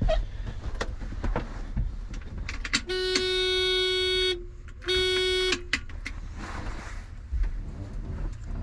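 An electric vehicle horn sounding twice on one steady pitch: a toot of about a second and a half, then a shorter one, with light clicks around it.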